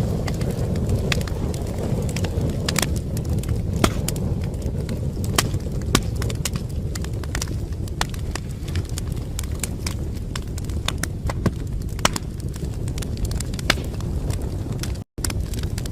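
Wood fire burning in a fireplace: a steady low rumble of flames with frequent sharp, irregular crackles and pops. The sound cuts out for an instant near the end.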